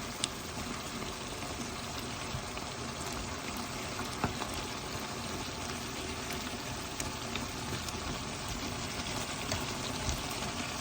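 Chicken and vegetables in soy sauce, Korean chili paste and sesame oil cooking in a pan, giving a steady sizzling, bubbling hiss with a few faint clicks.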